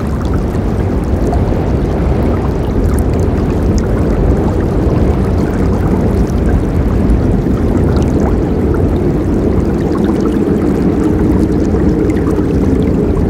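River water rushing steadily, a continuous deep rushing noise with small splashes on top.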